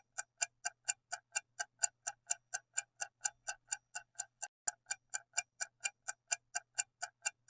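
Clock-ticking sound effect, a fast, even tick about four times a second, counting down the answer time.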